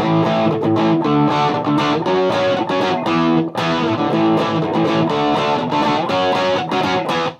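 Gibson Les Paul electric guitar played through a Mesa Boogie Dual Rectifier tube amp and Marshall 1960A 4x12 cabinet: a continuous run of picked chords and notes. The amp's presence is turned down, which fattens the tone. The playing stops abruptly at the end.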